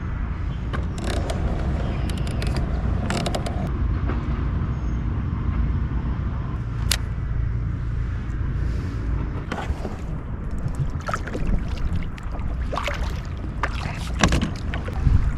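Pedal-drive kayak's propeller drive being pedalled, a steady low mechanical rumble with scattered clicks and knocks from the drive and hull, after weeds have been cleared from the fouled propeller.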